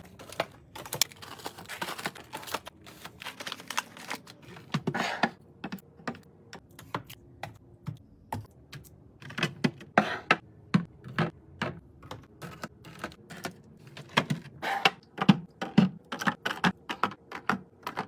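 A rapid, irregular series of clicks and taps, bunched in runs like typing.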